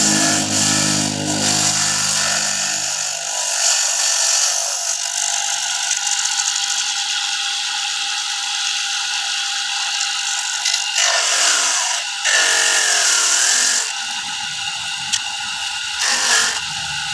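Electric coconut grating machine running, a steady mechanical whine with a harsh, rasping grating noise as coconut is worked against the spinning grater. The pitch dips and swoops about two-thirds of the way through and again near the end.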